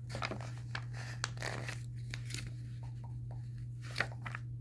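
Light paper rustles and a few soft clicks from a book being handled, over a steady low hum.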